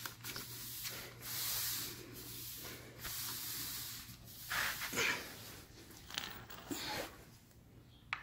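Wiping a motorcycle part clean: repeated scratchy rubbing strokes, with a few light clicks near the end.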